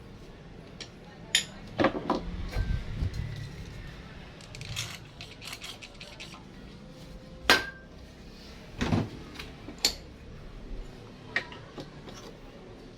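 Scattered clinks and knocks of hard objects being handled, with a few sharp strikes; the sharpest comes about halfway through.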